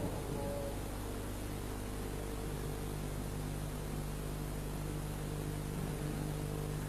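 Steady electrical mains hum with a layer of hiss, the background noise of the recording.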